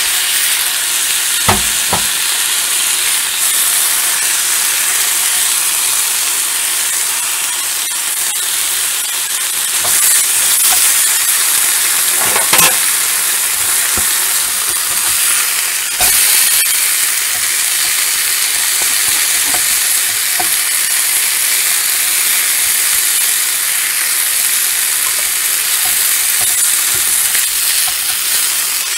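A leftover burger and cherry peppers sizzling as they reheat in a nonstick frying pan, a steady hiss. A few short knocks of the fork and spatula against the pan come near the start and around the middle.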